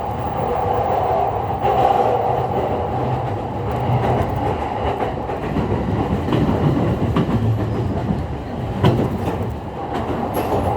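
JR East E231-series electric multiple unit running, heard from inside the car: a steady rumble of wheels on rail with a steady inverter/traction-motor tone, and a few separate rail-joint clacks.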